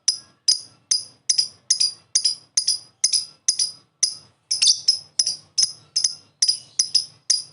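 Lovebird in its long 'ngekek' chatter: a steady run of short, sharp, high notes, about two to three a second.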